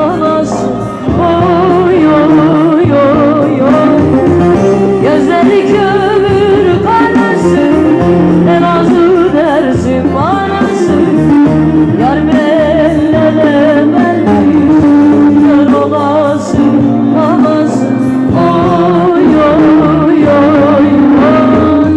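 A song: a voice singing an ornamented melody with wavering, vibrato-laden runs over instrumental backing.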